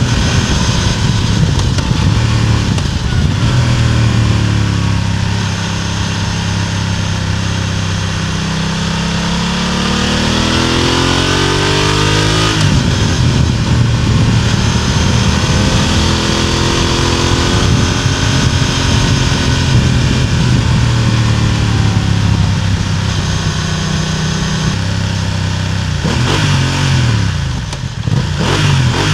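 BMW F900R parallel-twin engine and exhaust under way, heard from just above the exhaust. Revs climb, drop suddenly at a gear change about twelve seconds in, then rise and fall with the throttle, with several quick rises near the end.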